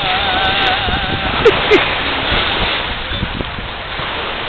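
Lake waves and wind buffeting the microphone in a steady rush. In the first second a voice holds a wavering note, and about a second and a half in come two short, sharp sounds.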